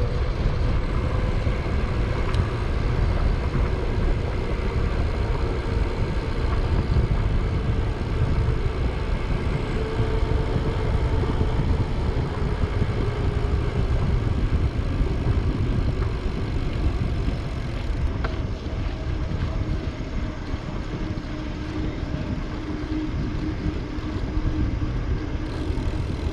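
Wind buffeting the microphone over the steady rolling noise of a bicycle on the road, a continuous low rumble. A faint hum runs underneath and drifts lower in pitch in the last third.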